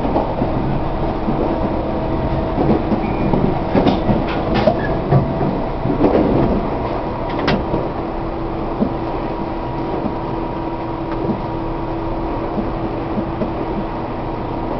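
Tobu 1800 series electric train running at speed, heard from inside a passenger car: a steady rumble of wheels and running gear with a constant hum, and a few sharp clicks and knocks about four to seven seconds in.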